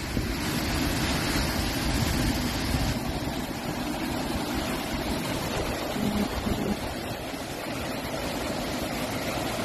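Floodwater rushing past, a steady unbroken rush of moving water.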